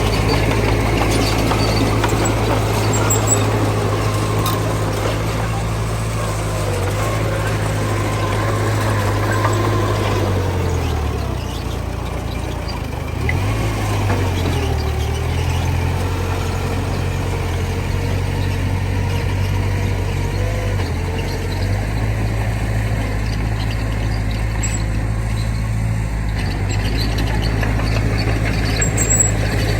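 Heavy diesel engine of earthmoving machinery running steadily. Its pitch sags and recovers twice, about halfway through and again about two-thirds of the way in, as it comes under load.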